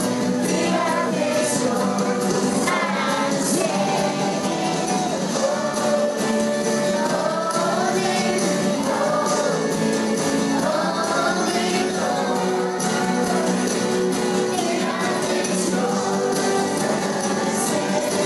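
Live choir singing with an instrumental band accompaniment and a tambourine, in a large hall.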